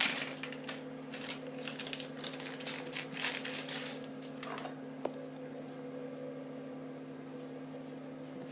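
Crisp crinkling and rustling of plastic packaging being opened by hand, in quick bursts over the first four seconds, over a steady low hum.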